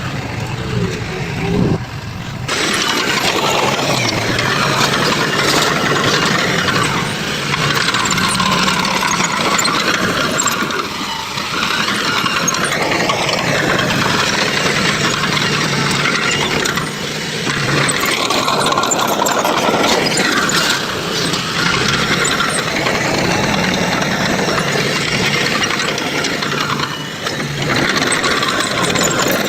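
Heavy construction machinery running with a loud, dense mechanical noise. The sound changes abruptly about two and a half seconds in.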